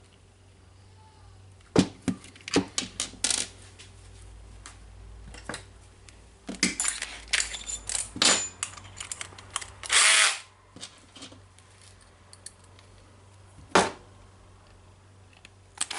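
Power screwdriver running in short bursts to drive screws into the rotary hammer's motor housing, among clicks and clatter of small metal parts and tools being handled.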